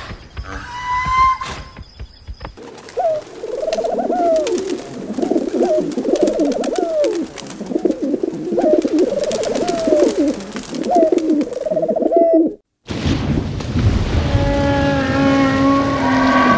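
Pigeons cooing, many overlapping calls in a steady chorus. They cut off suddenly, and rushing, splashing water follows with a drawn-out pitched tone near the end.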